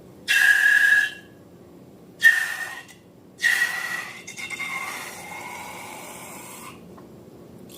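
Air let out of a balloon through its stretched neck: hissing with a high squealing tone, in two short spurts and then one longer release lasting about three seconds.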